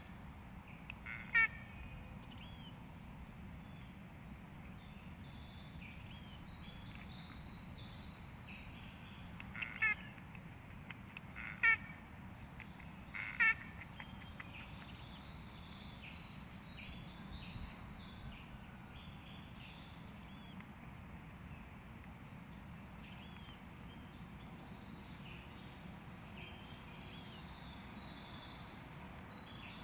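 A strange bird call: four short, loud, sharp calls, one about a second in and three close together between about ten and fourteen seconds. Many small birds chirp high-pitched throughout.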